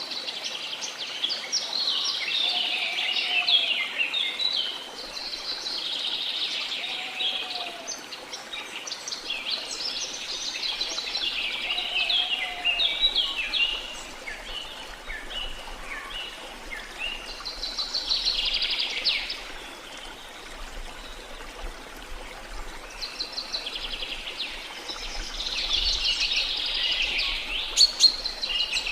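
Songbirds singing in bursts of rapid chirping phrases every few seconds, over a steady hiss of flowing water. In the first half a second bird gives short, low, arching whistled notes about every two seconds.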